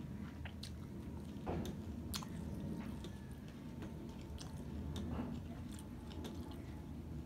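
Close-miked chewing and biting of a handful of rice with fried small fish: irregular wet mouth clicks and soft crunches. Fingers mix more rice on a steel plate alongside.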